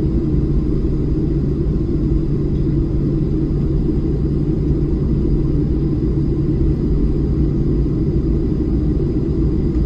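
Steady low rumble of a Boeing 737-700 heard from inside the cabin on the ground after landing, with a faint high steady whine above it.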